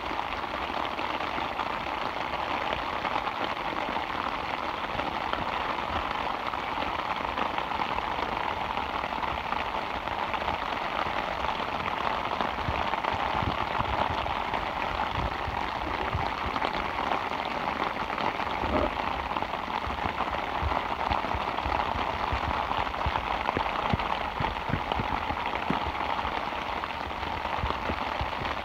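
Steady rain falling on a tarp overhead, with scattered individual drop hits.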